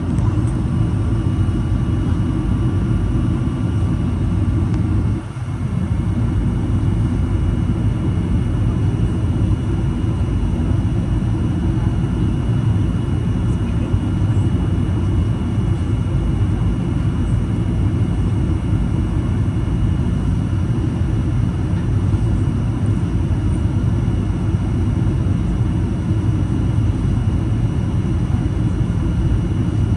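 Steady low rumble of a Boeing 737-800's cabin in flight, the engine and airflow noise heard from a seat inside, with a brief dip in level about five seconds in.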